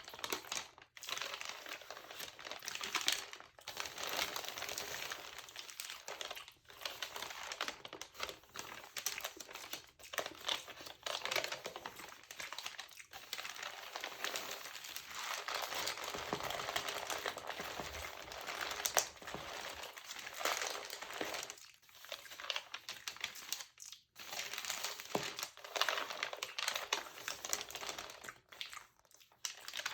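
Textured glossy magazine paper being crinkled and handled, a dense run of crackling with a few short pauses.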